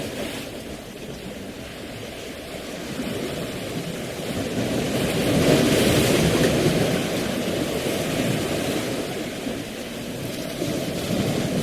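Rushing water with a steady, rumbling rush that swells to a peak about halfway through and then eases off.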